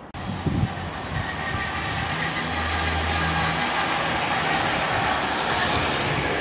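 Train approaching a level crossing with the barriers down: a steady rushing rumble that starts abruptly and slowly grows louder, with a faint low hum near the middle.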